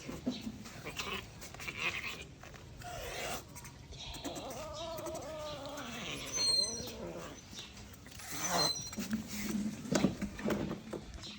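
Monkey vocalizing: a series of wavering, bleat-like cries, with a louder, busier stretch near the end.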